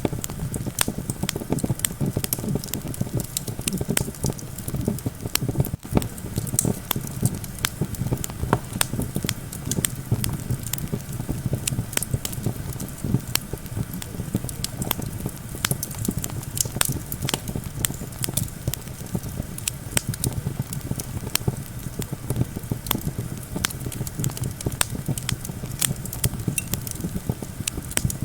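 Campfire crackling and popping with many irregular sharp snaps, over a steady low rumble of wind.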